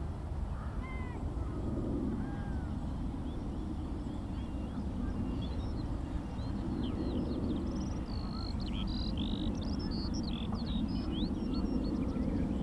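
Skylark song: a dense run of rapid, varied high chirps and trills about eight seconds in, after scattered bird notes earlier. A steady low rumble runs underneath throughout.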